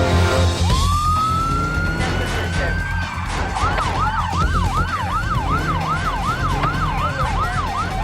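Police siren sounding a long rising wail, then switching about three and a half seconds in to a fast yelp of about three cycles a second, over a steady low rumble.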